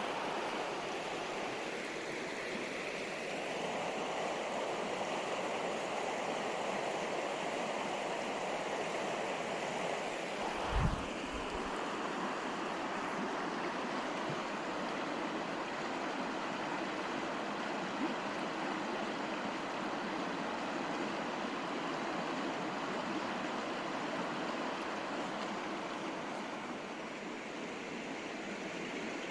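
River water flowing in a steady rush. A brief low thump sounds about a third of the way through.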